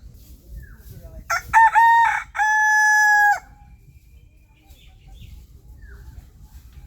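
Rooster crowing once, a cock-a-doodle-doo of a few short broken notes ending in one long held note, about a second in.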